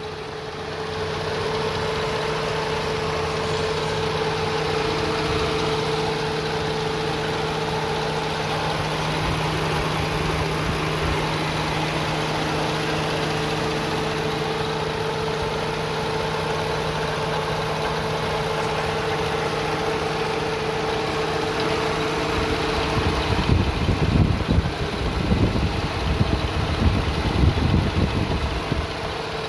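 A 2004 Toyota Sienna's 3.3-litre V6 engine idling steadily. Louder, uneven low rumbling comes in for a few seconds near the end.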